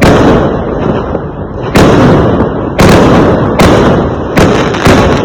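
Fireworks going off: a series of loud bangs, about one a second, each trailing off into a rumble.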